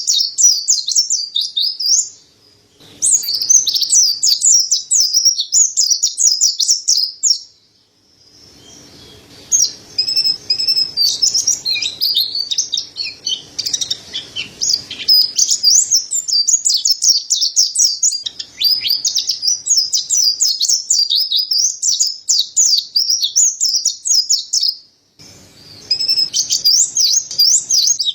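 Mountain white-eye (pleci montanus) singing energetically in fast, high, twittering runs of rapid chirps. The song breaks off briefly about two seconds in, around eight seconds in, and near the end.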